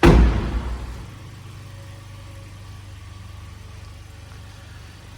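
Buick Cascada's 1.6-litre turbocharged four-cylinder engine idling with a steady low hum. Right at the start comes a sudden loud thump that fades within about a second.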